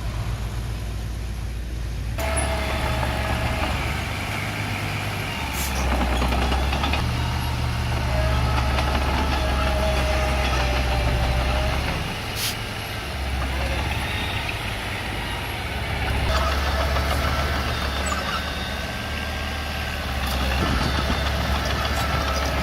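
Small Komatsu bulldozer's diesel engine running as it works, its load and note shifting every few seconds, with a wavering whine and a couple of sharp clanks.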